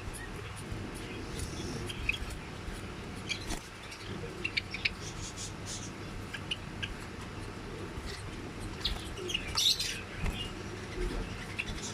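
White Java sparrows chirping: short, scattered chirps, with a louder flurry of calls about ten seconds in.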